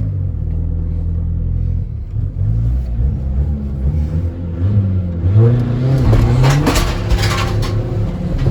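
Tuned VW Caddy's 1.9 TDI PD130 four-cylinder diesel with a big turbo, heard from inside the cabin. It runs steadily for about five seconds, then accelerates hard, its note climbing, with a loud rushing noise for a couple of seconds. Near the end the pitch drops, as at a gear change, and starts climbing again.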